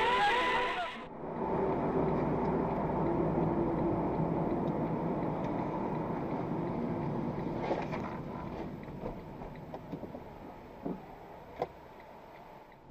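Car driving, heard through a dash camera: steady engine and road noise that slowly grows quieter, with a few faint knocks in the last few seconds.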